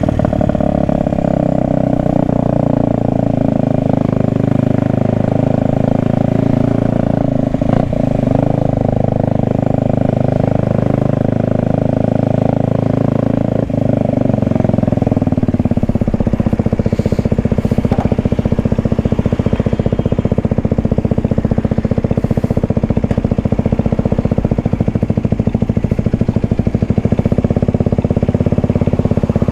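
Kawasaki Ninja 125's single-cylinder four-stroke engine running continuously, its note shifting lower and more even about halfway through.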